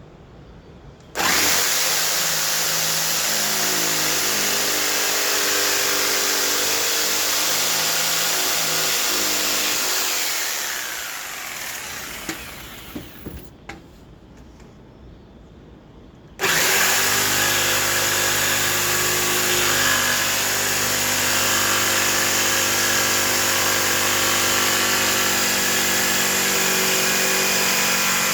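Electric power saw motor running while cutting wood. It spins down about ten seconds in, falling in pitch. A few light clicks follow, and it starts up again about sixteen seconds in and runs steadily.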